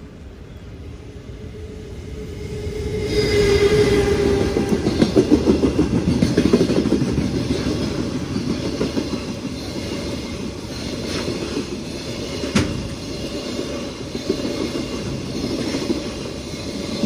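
Container freight train hauled by a JR Freight EF210 electric locomotive running through a station without stopping. The sound swells about three seconds in as the head of the train passes, then the wagons roll by with a steady rumble and clickety-clack of wheels over the rail joints, with one sharp knock about twelve seconds in.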